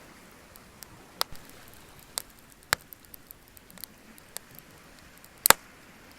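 Wood fire crackling: sharp, irregular pops and snaps over a faint hiss, the loudest a double pop near the end.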